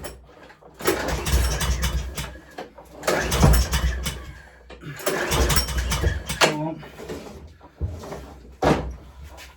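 Efco LR53 petrol lawnmower engine being pull-started and firing, running in three spells of about a second and a half each, then a sharp knock near the end. It starts up near the first pull.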